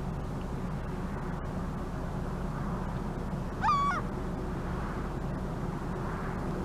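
A gull gives one short call about halfway through, rising and then holding level. Under it runs a steady low rumble.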